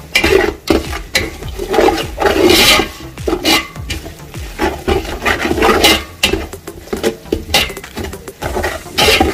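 A spoon scraping and knocking around a cooking pot in uneven strokes as the masala and salt are stirred together.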